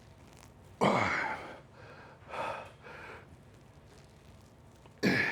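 A man breathing hard and exhaling forcefully while straining through a set with a weight that is too heavy. There is a sharp, loud exhale about a second in, two shorter breaths around the middle, and another hard exhale near the end.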